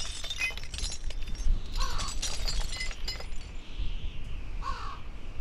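A crow-like bird cawing twice, about three seconds apart, over crackling noise in the first half and a low rumble.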